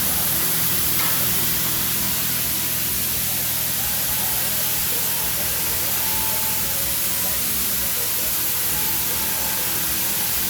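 Washworld Razor touchless car wash spraying pre-soak onto the car: a steady hiss of liquid hitting the body and glass, heard from inside the car.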